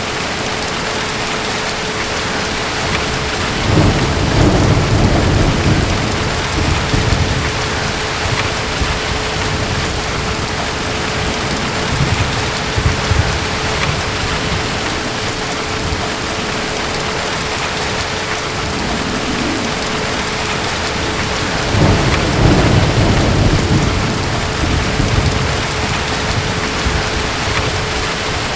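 Steady heavy rain with two rolls of distant thunder, a few seconds in and again past the middle, each rumbling for several seconds before fading. A faint steady hum sits under the rain.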